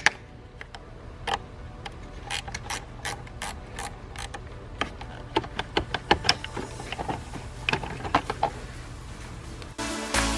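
Hand ratchet wrench clicking in short, irregular runs as fasteners are worked on the car. Background music comes in near the end.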